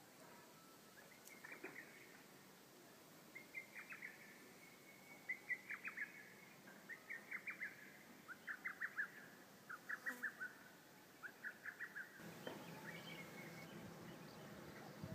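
A small songbird singing: short phrases of quick, high chirps, each phrase a handful of notes, repeated about once a second. Near the end the background hiss grows louder.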